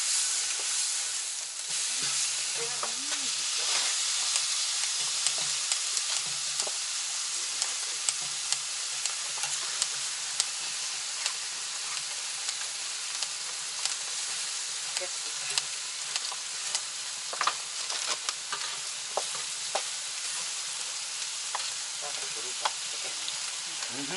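Rice and kimchi stir-frying on an iron griddle left greasy from grilled pork belly: a steady sizzle, with scattered clicks and scrapes of utensils working the food on the plate.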